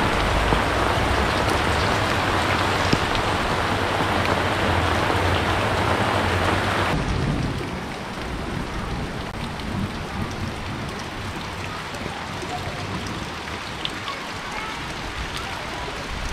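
Heavy rain pouring down in a steady hiss. About seven seconds in the sound drops suddenly to a lighter, quieter rain with scattered drips.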